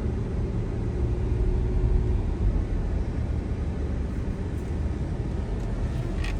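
Steady low rumble of a car driving, heard from inside the cabin: road and engine noise with no sudden events.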